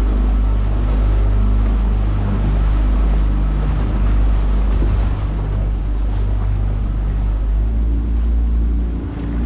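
Boat engine running steadily with a low hum, over a heavy rumble and the rush of water and wind.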